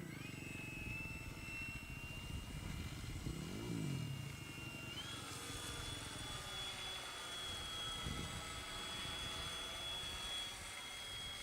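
Cessna 182 light aircraft's piston engine and propeller running, with a steady high whine that steps up in pitch about five seconds in.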